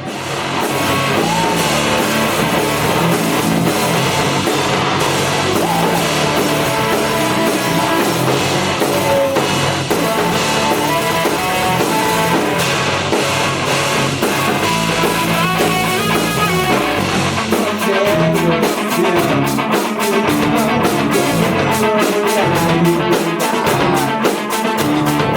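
Rock band playing together: electric guitar, bass and drum kit. About two-thirds of the way in, the drums move into a steady beat of sharp strokes, about three to four a second.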